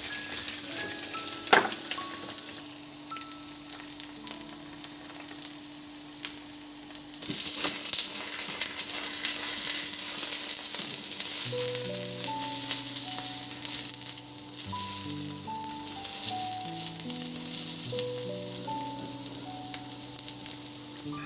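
Food sizzling and crackling in a frying pan, with a knock about a second and a half in; soft melodic background music plays over it.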